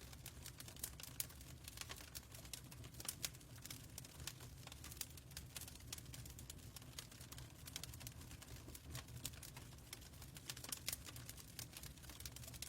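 Faint fireplace crackle: irregular sharp pops and clicks scattered over a low steady rumble.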